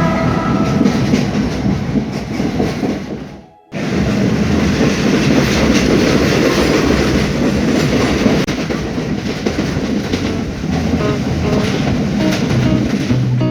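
Passenger train running along the track, a steady loud noise of wheels and carriage. The tail of background music fades out in the first few seconds before it.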